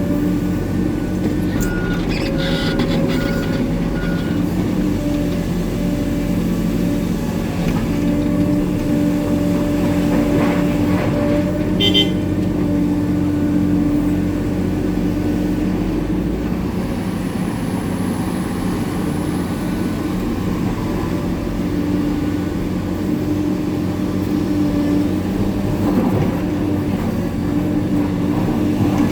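Hitachi 890 excavator's diesel engine running steadily under working load. A few short knocks and rattles come through, the sharpest about twelve seconds in.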